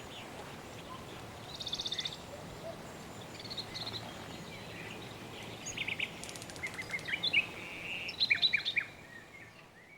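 Several birds chirping and trilling over a steady background hiss, with a quick trill about two seconds in and a cluster of sharp downward chirps near the end. The whole ambience then fades out.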